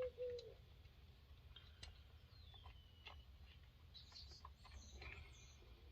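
Near silence, with scattered faint clicks and a few faint high bird chirps. A short, low two-part hum comes right at the start.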